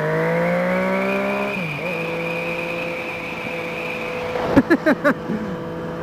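Sport motorcycle engine accelerating, its pitch climbing, then dropping sharply about one and a half seconds in as the rider shifts up. It then holds a steady pitch at cruise. A few short, sharp knocks come near the end.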